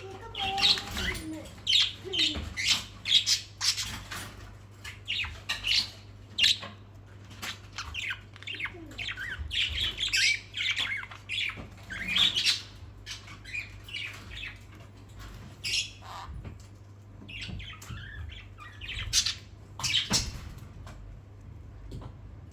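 Pet parrots, a mix of sun conure, lorikeet and budgies, squawking and chirping in short, sharp, irregular calls, with a quieter stretch past the middle. A low steady hum runs underneath.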